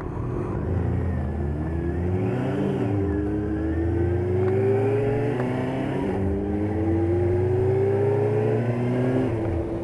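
Motorcycle engine running on the move, its pitch climbing as it accelerates and dropping back two or three times at gear changes, then easing off near the end.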